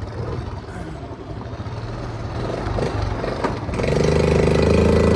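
Honda C70 step-through's small single-cylinder four-stroke engine running on the move; a little under four seconds in its note gets louder and steadier.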